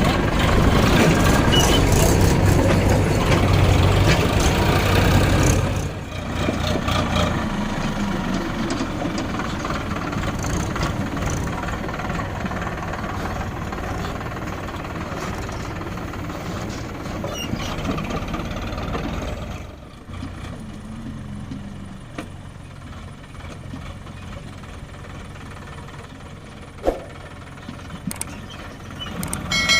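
Diesel tractor engine running, loud for the first six seconds, then quieter, dropping again about two-thirds of the way through. A single sharp click near the end.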